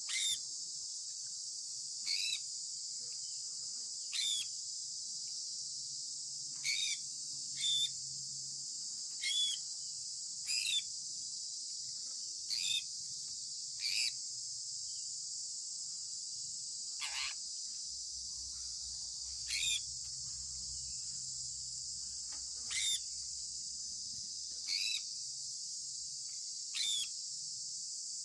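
Sun conure giving short, quick, downward-sweeping chirps, repeated about every two seconds, over a steady high-pitched hiss.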